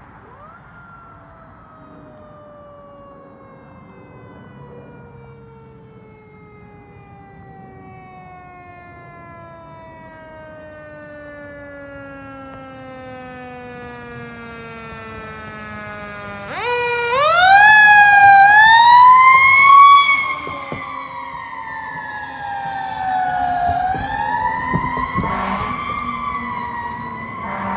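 Fire engine's siren on a response run: a long wail that slowly falls in pitch and grows louder as the truck approaches, then about two-thirds of the way through it winds up sharply and becomes very loud as the truck passes close, rising and falling a couple more times before easing off.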